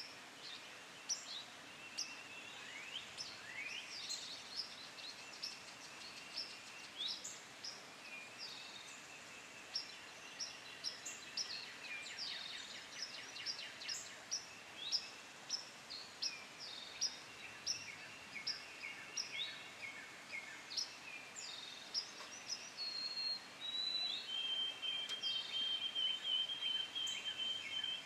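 Several wild birds singing and calling together: many short, quick chirps and down-slurred notes overlapping throughout, with a long, steady high trill from a little past the middle to the end.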